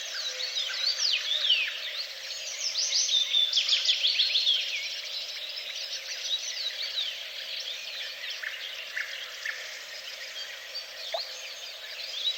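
Several songbirds singing together, a dense run of quick chirps and trills, busiest in the first four seconds or so, then thinning out.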